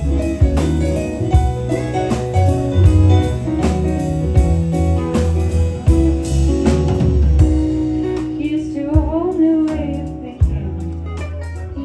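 Live band playing a blues-rock song, with a steady bass line, drums and guitar; a singing voice comes in about two-thirds of the way through.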